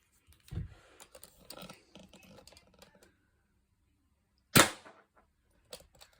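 Benjamin Franklin .22 air pistol being handled with a series of clicks and knocks, then firing one sharp, loud shot about four and a half seconds in, followed by a few more clicks.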